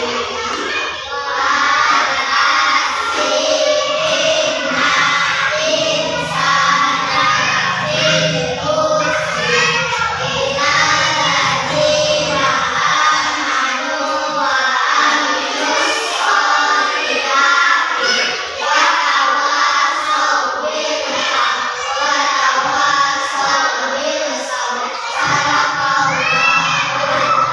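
A group of children singing a song together in chorus, kept up without a break.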